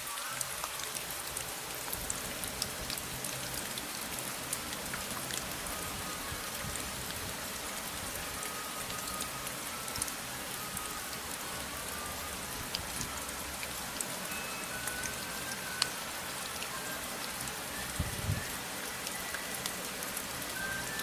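Steady rain falling, with many individual drop ticks over an even hiss. A short low thump comes about eighteen seconds in.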